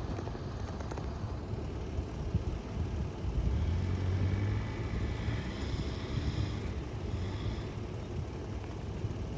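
4x4 truck engine running with a steady low rumble while the truck drives slowly over the trail.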